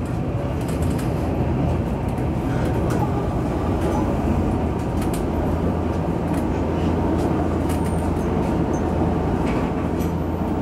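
Electric commuter train running, heard from the driver's cab: a steady low motor hum with wheel and rail noise and occasional clicks. The hum grows stronger about halfway through.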